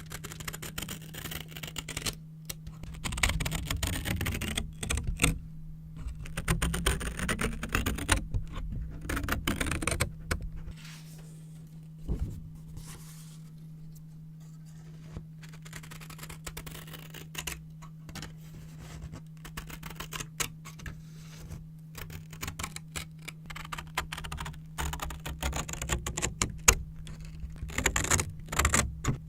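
Scissors cutting and snipping brown paper, with crisp clicks of the blades and paper crinkling in bursts. It is busiest in the first third and again near the end, with fewer, lighter snips in between. A steady low hum runs underneath.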